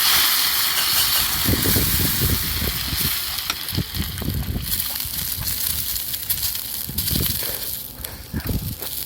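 Meat sizzling over a campfire, a loud hiss that stops suddenly about halfway through, with close, irregular crunching chewing of crisp grilled food.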